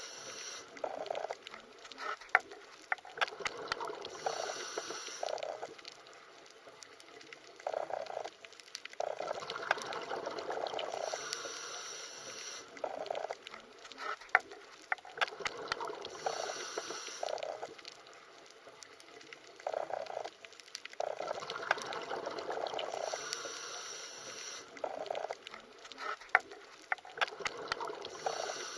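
Underwater water sound: gurgling and bubbling that swells and fades every few seconds, with sharp clicks scattered through it.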